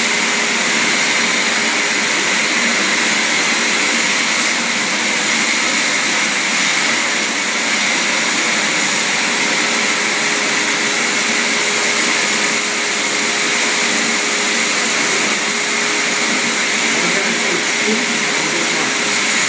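A vacuum motor running steadily: an even rushing noise with a constant whine that does not change.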